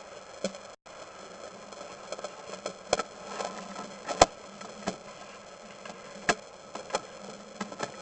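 Sewer inspection camera equipment with a steady electrical buzz and hiss, broken by irregular sharp clicks and knocks. The sound cuts out completely for a moment about a second in.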